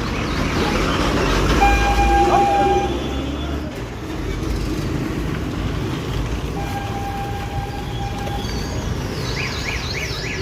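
Roadside traffic: a vehicle engine rumbles past while horns sound, one held steady about a second and a half in and another held for about two seconds near the middle, then a warbling horn that swings rapidly up and down in pitch near the end.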